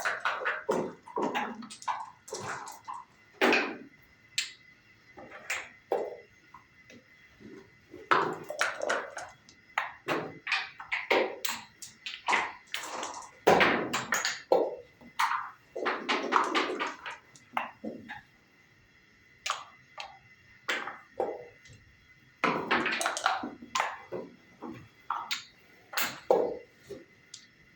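Backgammon play: checkers clacking down on the board and dice rattling and landing, an irregular run of sharp clicks and short clatters.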